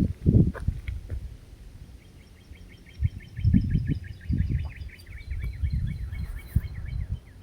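A songbird sings a long, rapid trill of repeated notes that drifts slightly down in pitch; it starts about two seconds in and lasts about five seconds. Louder low thumps and rumbles come and go underneath.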